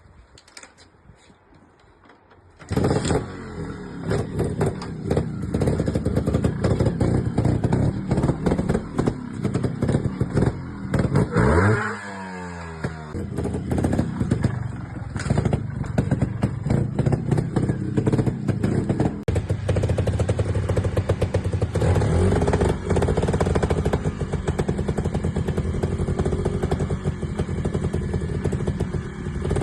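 Sherco trials motorcycle engine starting up about three seconds in, then running with throttle blips and a sharp rev that rises and falls away near the middle, amid a rattling mechanical clatter.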